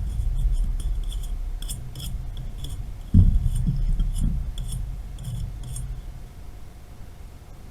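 Metal tools and pipe fittings clinking and scraping during valve replacement work, with a knock about three seconds in, over a low rumble.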